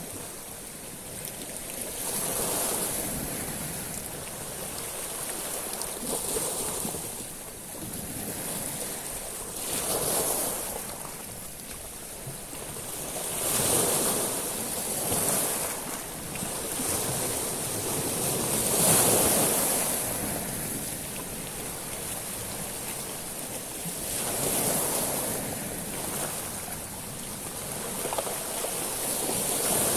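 Sea waves washing in and out over a beach of small stones. Surges come and go every few seconds, the biggest a little past the middle.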